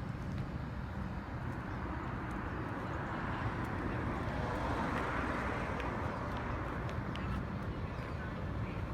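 Cars crawling past in slow traffic, a low steady engine rumble; one vehicle's noise swells and fades about halfway through, with faint scattered clicks.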